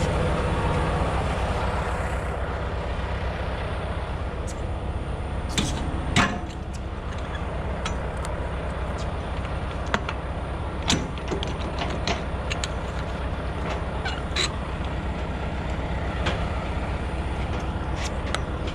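Semi truck's diesel engine idling steadily, with scattered sharp clicks and knocks over it.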